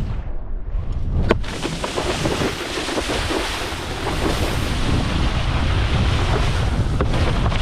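Wind buffeting the microphone over rushing, splashing water, with a single sharp click about a second in.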